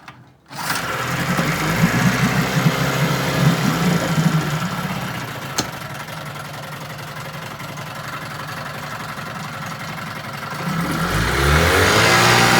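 1974 Johnson 9.9 hp two-stroke outboard motor running steadily in a test tank, freshly rebuilt and running smoothly. About eleven seconds in the throttle is opened and it revs up, then holds at the higher speed.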